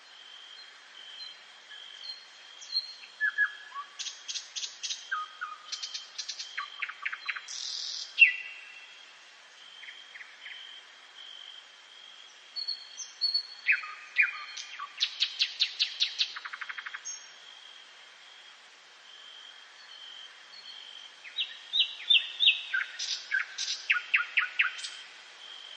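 A songbird singing three phrases of quick trilled notes, each a few seconds long with pauses between. A faint steady high tone runs beneath.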